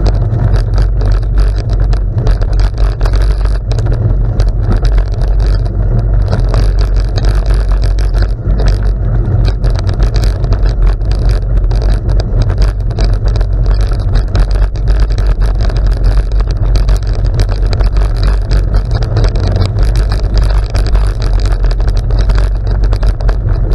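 Steady, loud rumble of wind on the microphone while riding, mixed with the crunch and rattle of bicycle tyres rolling over gravel.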